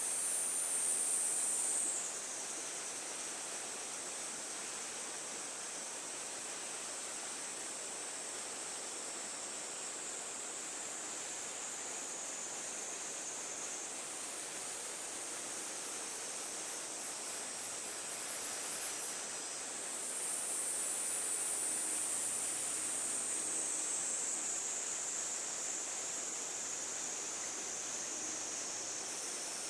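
Outdoor ambience of a steady, high-pitched insect chorus over a soft hiss. Its pitch steps up about twenty seconds in and then slowly slides down, with a brief pulsing trill just before.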